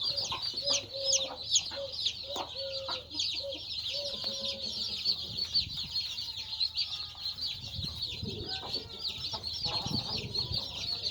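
A brood of Rhode Island Red male chicks peeping continuously: a dense chorus of many short, high, falling cheeps. A few lower, drawn-out calls repeat during the first half.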